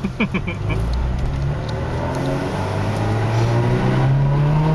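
Honda Integra Type R (DC5)'s four-cylinder K20A engine heard from inside the cabin as the car pulls away and accelerates, its pitch rising steadily and growing a little louder over a few seconds.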